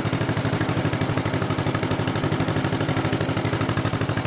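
1955 John Deere 40S tractor's two-cylinder engine running steadily at low speed, with a rapid, even exhaust beat.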